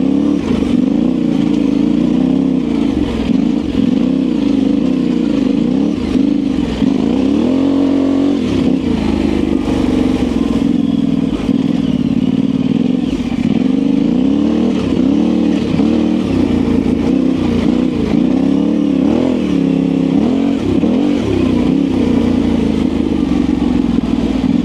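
Yamaha Ténéré 700's parallel-twin engine through an aftermarket high exhaust, revving up and down continuously as the adventure bike is ridden along off-road single track, the pitch rising and falling every second or two.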